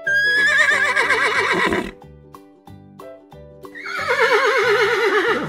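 A horse whinnies twice, each whinny lasting about two seconds: a high, quavering call that falls in pitch. Light keyboard music plays underneath.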